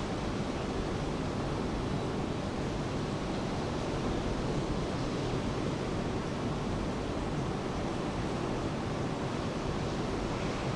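Steady rain and ocean surf, an even wash of noise without a break.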